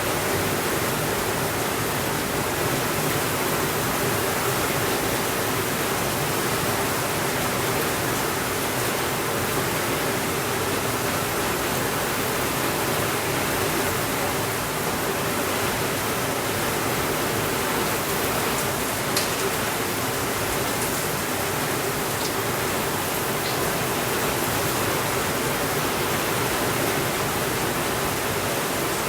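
Steady rain, an even hiss with no thunder, with a few faint ticks about two-thirds of the way through.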